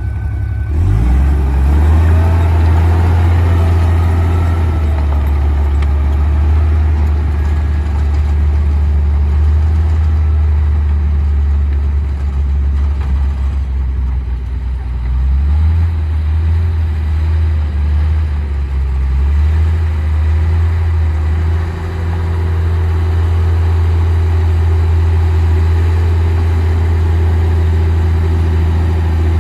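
Komatsu D58P bulldozer's diesel engine running steadily with a deep drone, its note shifting about halfway through and again a few seconds later.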